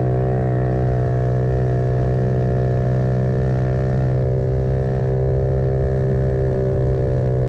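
Motorbike engine running at a steady speed, a constant hum with a strong, unchanging pitch, heard from the pillion seat while riding.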